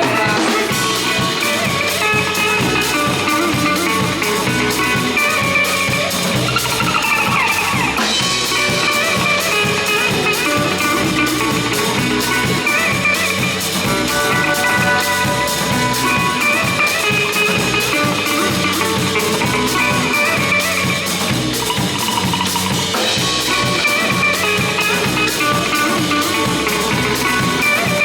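Live psychedelic cumbia band playing an instrumental passage: electric guitar lines over a steady drum kit and percussion beat.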